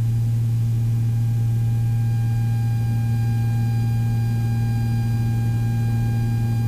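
Steady low drone of the twin-engine Beechcraft Baron in flight, heard through the cockpit intercom, with faint steady higher whine tones over it.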